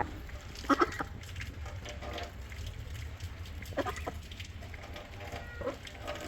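A few short calls from farm animals, about three of them, spaced a couple of seconds apart, over a steady low background rumble.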